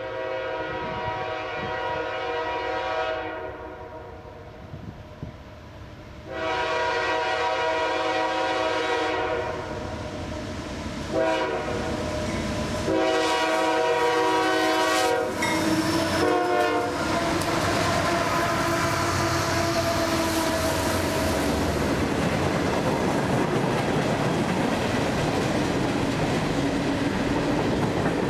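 CSX diesel freight locomotive's air horn sounding the grade-crossing signal: two long blasts, a short one, then a long one. The locomotives then pass close by, with diesel engines running and steel wheels on the rails.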